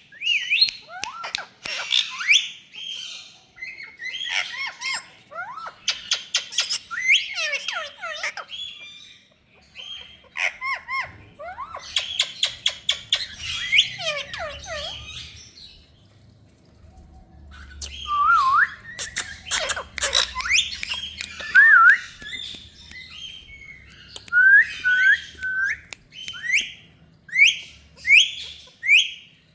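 A parrot calling in quick runs of chirps, squawks and gliding whistles, with a pause of about two seconds past the middle. Near the end come short rising whistles, about one a second.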